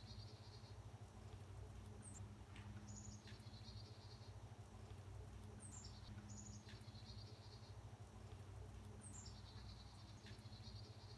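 Faint repeated animal call: a short high falling note followed by a buzzy trill, coming back about every three and a half seconds, over a low steady hum.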